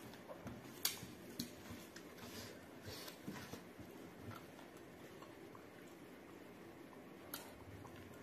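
Close-miked chewing and wet mouth and finger sounds of someone eating pork and rice by hand, with a few sharp clicks, the loudest about a second in and another near the end.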